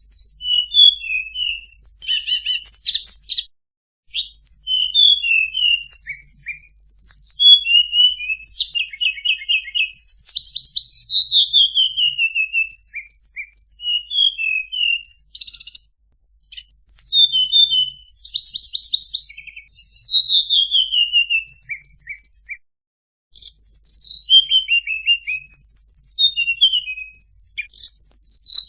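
Tledekan songbird singing a fast, varied song of high chirps, quick trills and falling slurred phrases, with short pauses three times.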